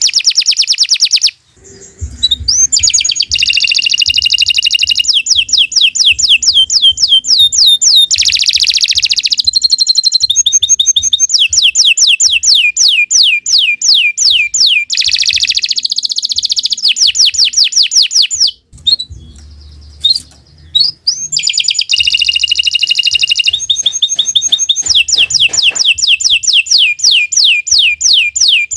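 Domestic canary singing a long, loud song of rapid repeated trills, each run of quick sweeping notes passing straight into the next, with brief pauses near the start and about two-thirds of the way through.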